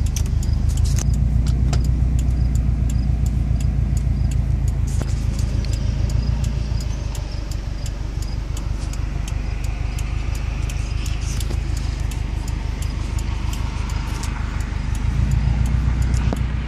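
2004 Subaru Impreza WRX STI's turbocharged 2.5-litre flat-four idling through a Perrin turbo-back exhaust, heard from inside the cabin: a steady, pulsing low rumble with a rapid light ticking over it.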